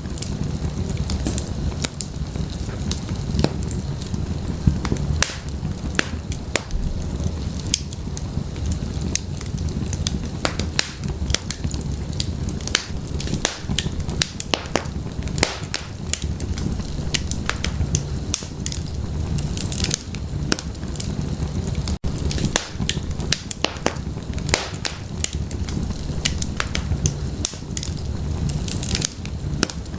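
Burning firewood crackling and popping in an open fireplace: frequent irregular sharp pops over a steady low rumble of the flames.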